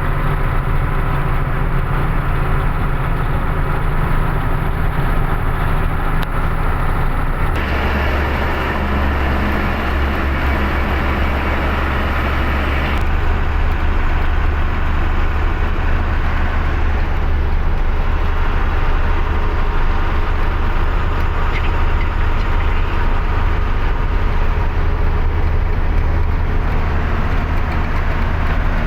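Truck engine and road noise while driving, a steady low rumble. The sound changes abruptly twice in the first half.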